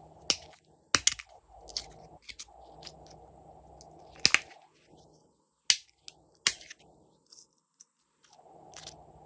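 Glossy slime being squished and pressed by hand, giving sharp pops and clicks from trapped air over a soft squelching. About a dozen pops fall irregularly, the loudest about a second in and near the middle.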